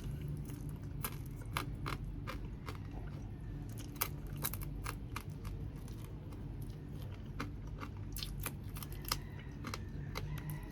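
Close-up eating of grilled chicken: chewing with an irregular string of short clicks and crunches, over a steady low hum.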